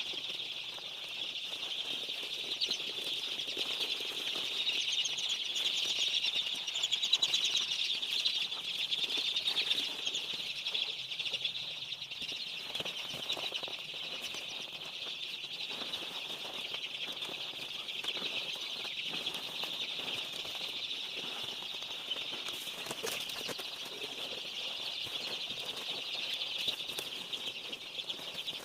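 A crowd of day-old broiler chicks peeping continuously in a dense, high-pitched chorus, with scattered knocks and rustles of handling.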